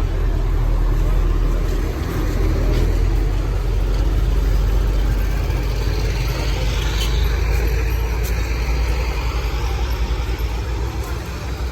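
A motor vehicle's engine running steadily, a loud low rumble with street noise around it.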